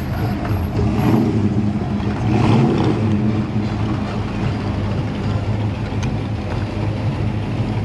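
Car engines running steadily as vehicles cruise slowly past, with one engine swelling louder about two and a half seconds in.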